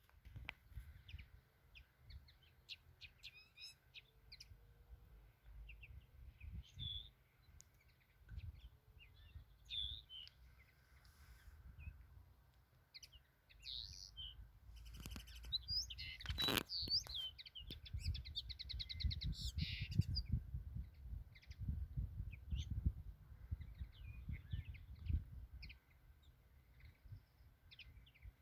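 Small birds chirping and calling, with short scattered chirps and a rapid trill a little after two-thirds of the way in, over a low rumble. A single sharp click about halfway through.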